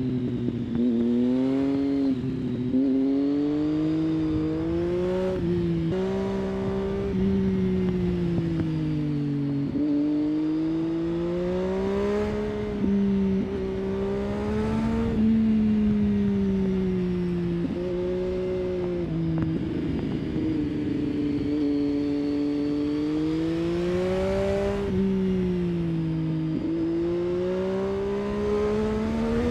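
Triumph Street Triple's 675 cc inline-three engine on the move, its pitch climbing and falling again and again as the throttle is opened and closed through a run of bends. Quick gear changes break the pitch every few seconds.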